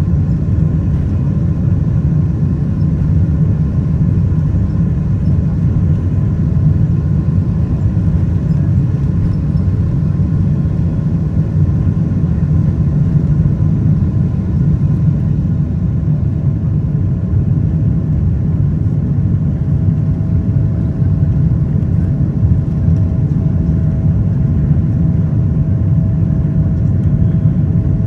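Steady engine and airflow rumble inside the cabin of a Boeing 777-200ER airliner in flight, deep and even throughout. A faint steady whine comes in about halfway through.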